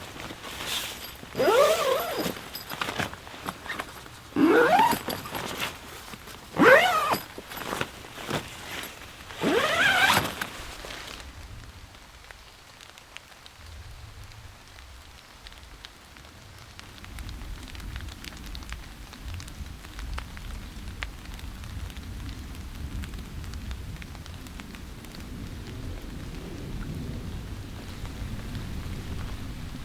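Rain falling steadily, with a low rumble of distant thunder from about halfway through. In the first ten seconds there are four loud, short sounds, each sliding in pitch.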